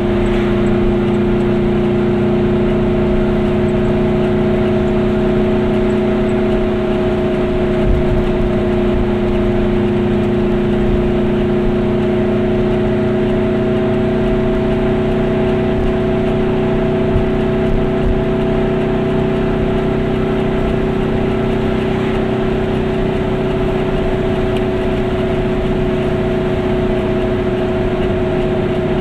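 Goggomobil's two-stroke twin engine running steadily at cruising speed, heard from inside the small car's cabin as a constant drone of unchanging pitch over road noise.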